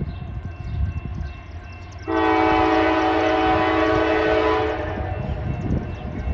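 Diesel locomotive's multi-chime air horn sounding one long blast of about three seconds, starting about two seconds in, over the low rumble of the passing train.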